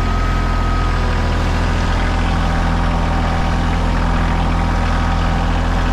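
A vehicle engine running steadily at low speed, a constant low hum with no change in pace.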